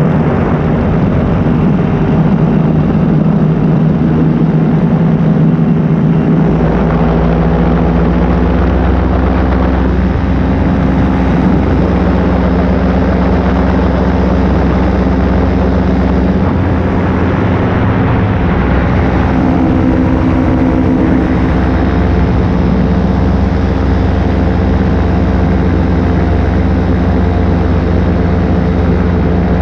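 Paramotor engine and propeller running steadily in flight, with its note shifting a few times as the throttle changes.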